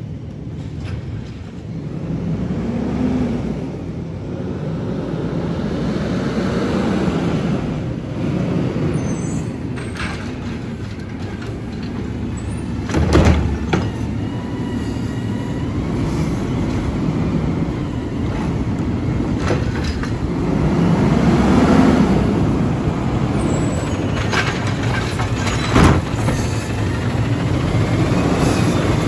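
McNeilus Autoreach side-loading garbage truck running, its engine rising and falling in several swells, with two sharp bangs about halfway through and near the end.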